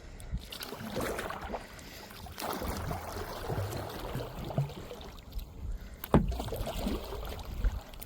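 Kayak paddle strokes: the blades splashing and dripping in the river water, with a sharp knock about six seconds in, likely the paddle shaft striking the kayak.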